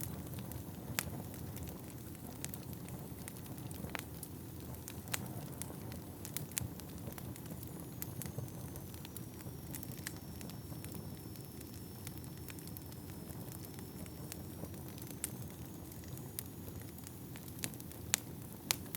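Wood fire burning in an indoor fireplace: a steady low rush of flames with scattered sharp crackles and pops, a few louder ones near the start and near the end. A faint, thin, high whistle dips and rises again through the middle.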